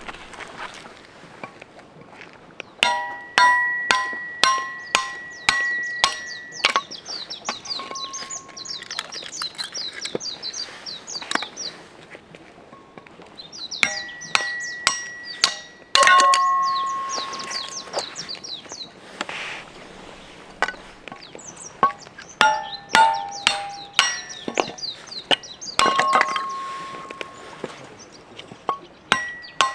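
Repeated hammer blows on metal, each leaving a short ringing clang, struck about two a second in three runs. Birds chirp in the pauses between them.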